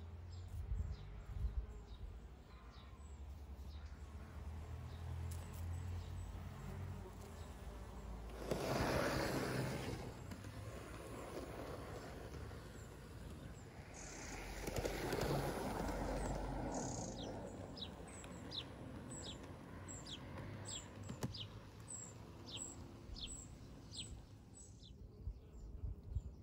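Garden ambience: a small bird repeats short, high, falling chirps, about two a second through the second half, with scattered chirps earlier. Two louder swells of rushing noise come around the middle.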